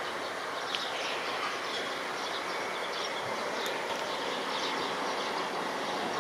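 Steady roar of a jet airliner's turbofan engines on approach, swelling slightly, from an FDA Embraer regional jet.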